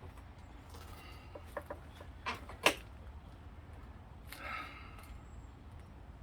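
A few sharp knocks and clicks of tools being handled on the bike while working on a stuck pedal, the loudest about two and a half seconds in, over a low steady hum.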